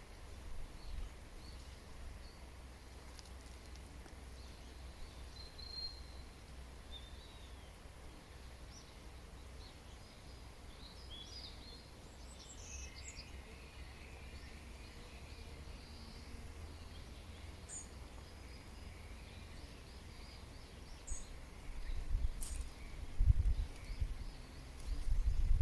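Wild birds chirping and calling: scattered short high chirps and trills, busiest in the middle, over a steady low rumble. Near the end, loud low thumps and rumbling come in.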